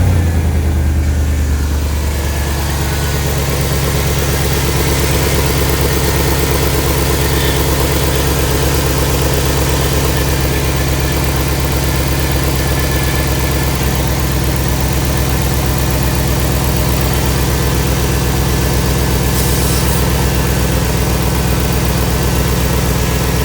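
Chevrolet Silverado's 5.3-litre V8 idling steadily just after starting, a little louder for the first couple of seconds before it settles.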